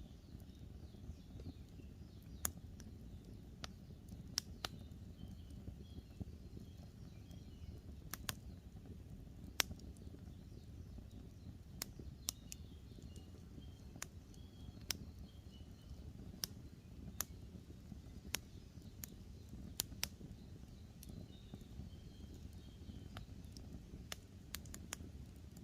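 Wood campfire crackling: irregular sharp pops and snaps over a low steady hiss of burning. Small birds chirp faintly a few times in the background.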